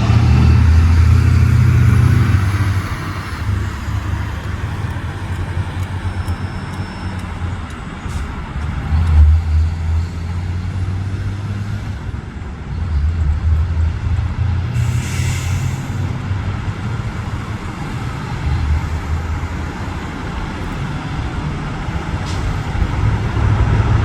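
Low, surging rumble of road traffic mixed with distant jet engine noise, with a short hiss about fifteen seconds in.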